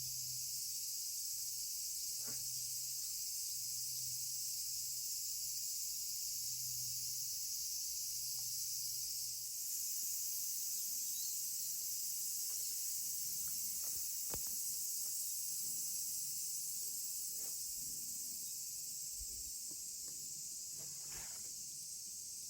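Steady, high-pitched chorus of summer insects droning, with a few faint clicks and knocks in the second half.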